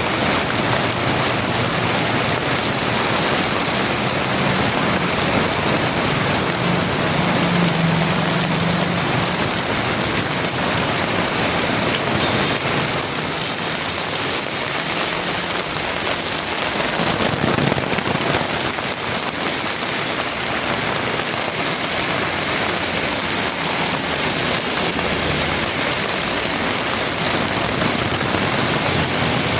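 Heavy rain pouring down as a steady, dense hiss that varies little in level. A low hum shows through for a few seconds in the first third.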